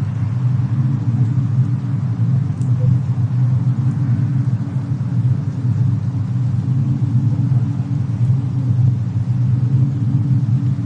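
Fireplace-and-snowstorm ambience: a steady low rumble with a couple of faint, sparse crackles.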